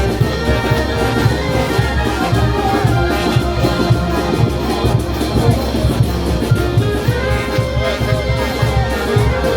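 Peruvian brass band playing a tune: held brass notes over a steady drum beat.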